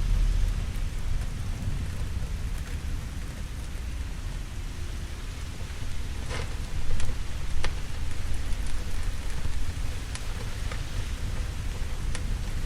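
Steady rain with a low, continuous rumble of thunder underneath. A few sharp pops stand out over the rain in the second half.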